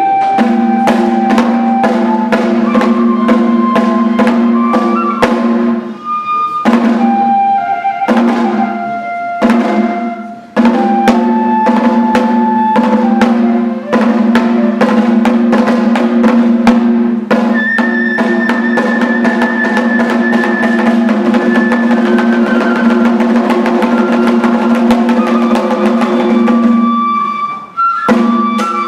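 Kagura festival music: fast, continuous drumming with a high, stepping flute-like melody over a steady low tone. The music breaks off briefly a few times.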